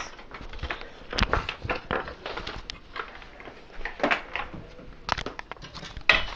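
Handling noise: scattered clicks and knocks, with a few louder knocks about a second in and again around four, five and six seconds in. The vacuum is not yet running.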